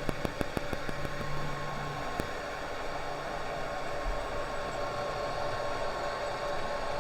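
Steady hiss with thin electrical whines at fixed pitches, and a few sharp clicks in the first two seconds: recording noise from the camera's microphone, which the uploader puts down to the camera getting wet in the rain.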